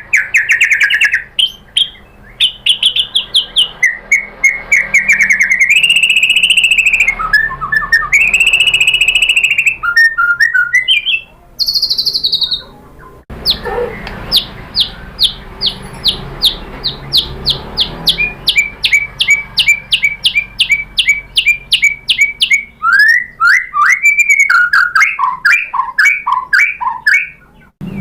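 White-rumped shama singing a varied song of whistled phrases and trills. It breaks off suddenly about halfway, then goes into a long run of rapid repeated high notes and ends with a string of falling notes.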